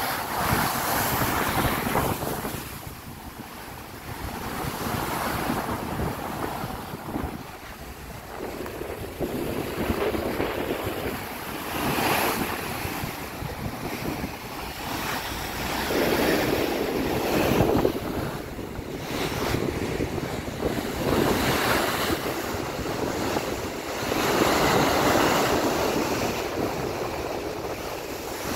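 Sea waves rushing against a moving ship while strong wind buffets the microphone, the noise swelling and easing every few seconds.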